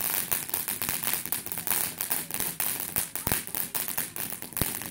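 Firecrackers going off: a rapid, irregular string of crackling pops with a few louder bangs among them.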